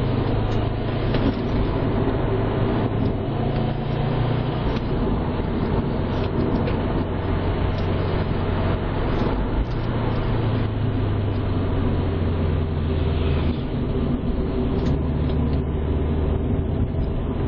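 2011 Subaru WRX's turbocharged flat-four engine running as the car drives, heard from inside the cabin along with tyre and wind noise. The engine note steps up and down a few times.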